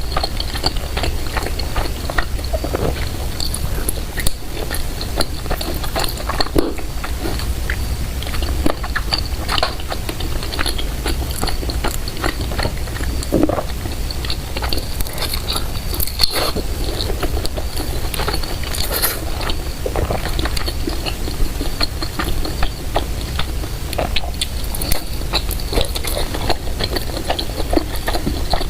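Close-miked chewing and biting: irregular wet clicks and smacks of a mouth eating, over a steady low hum.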